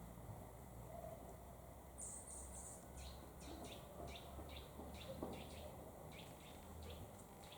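Small birds chirping faintly in a quick run of short, high notes, starting about two seconds in, over a low steady rumble.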